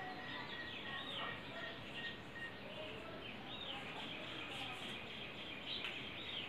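Faint bird chirps, a few short high calls a couple of seconds apart, over a steady low background hiss.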